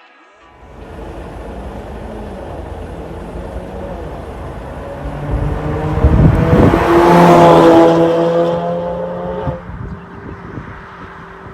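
Ford Focus 1.6 Mk3.5 exhaust through an MS-R valved muffler. The engine note starts about half a second in, swells over several seconds to its loudest around six to eight seconds in, then falls away.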